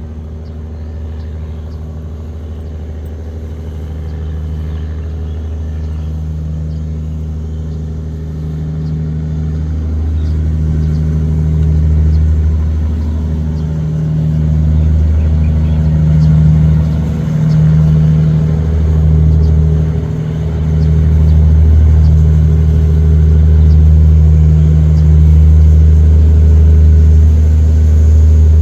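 Tugboat diesel engine running with a deep, steady drone that grows steadily louder, with two brief dips in the middle.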